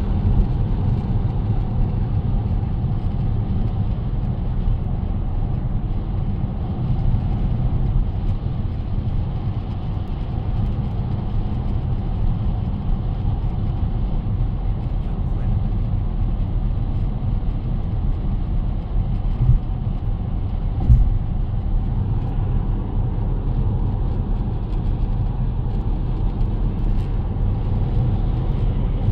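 Steady road and engine noise inside a moving car's cabin, with a squeak or chirp from behind the dashboard, the kind of trim rattle drivers call a 'cricket'. A couple of short knocks from bumps come about two-thirds of the way through.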